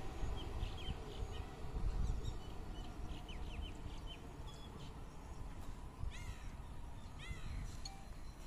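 EMU electric local train rumbling on the rails as it draws away, the rumble slowly fading. Over it, birds chirp, and two short arching animal calls come about six and seven seconds in.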